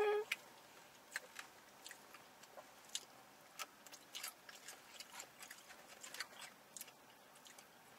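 Mouth sounds of people eating: quiet chewing with scattered soft clicks and smacks.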